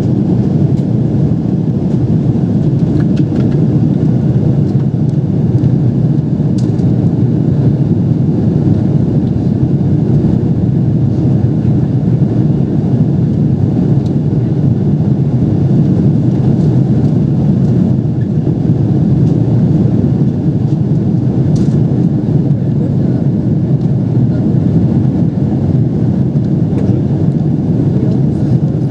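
Steady engine and airflow noise of a Boeing 777 heard inside the passenger cabin, a deep even rumble with no change in level.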